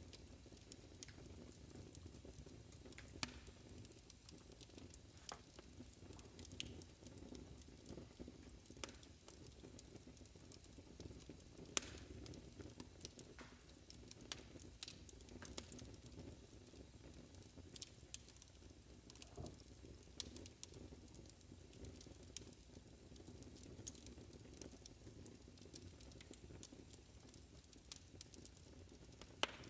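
Wood fire in a fireplace crackling quietly, a low steady rumble of flames with scattered sharp pops at irregular intervals.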